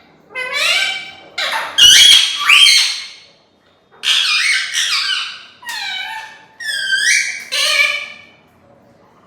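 Pet parrot calling: a string of about seven loud squawks that glide up and down in pitch, with short gaps between them. A low bump comes about two seconds in, under the loudest call.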